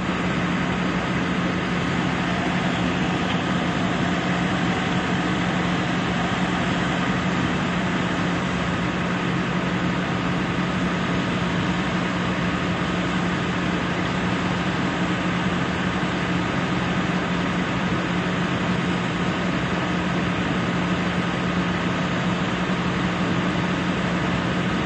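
Steady machinery noise with a constant low hum, unchanging throughout.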